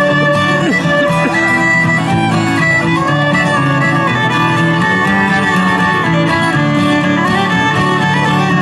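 Live bluegrass string band playing without singing: fiddle melody over strummed acoustic guitar.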